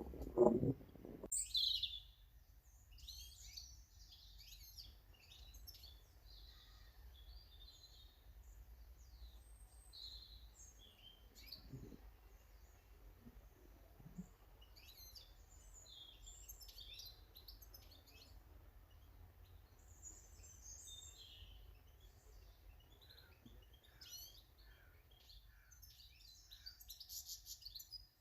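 Small garden birds chirping and calling, with many short, high calls overlapping and growing busier near the end. A brief low rumble or thump in the first second is the loudest sound.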